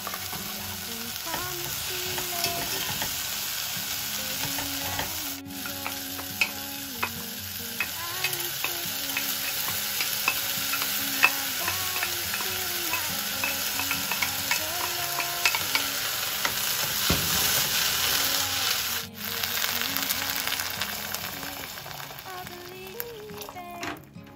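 Pork, onions and cherry tomatoes sizzling in a pot while a wooden spatula stirs them, with scraping and small taps against the pot. Partway through, a handful of soaked mung beans is tipped in.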